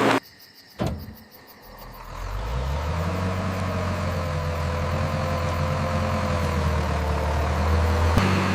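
Heavy logging machine's engine running. After a brief near-quiet gap with a single click, the engine hum comes up over about a second and then runs steadily, with an abrupt change near the end.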